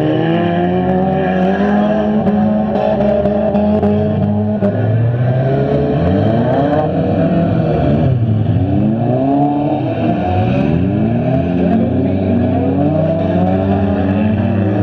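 Several stock front-wheel-drive cars' engines revving at once, each rising and falling in pitch so the engine notes overlap and cross.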